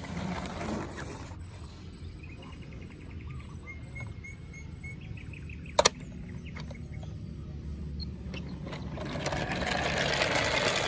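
Birds chirping softly over a steady low hum, with a single sharp click about six seconds in. Near the end, a louder rushing noise swells up and is the loudest sound in the clip.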